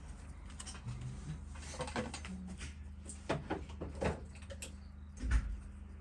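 Small clicks and taps from a watchmaker's tools and watch parts being handled on a bench, a few seconds apart, with a duller knock about five seconds in. A steady low hum runs underneath.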